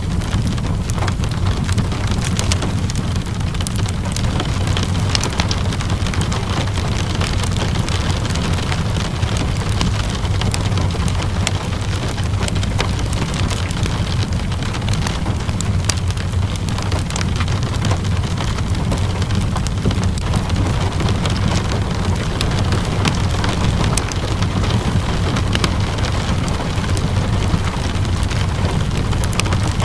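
Ambience mix of steady rain with a low, even rumble beneath it and scattered sharp crackles of a wood fire. No change or pause throughout.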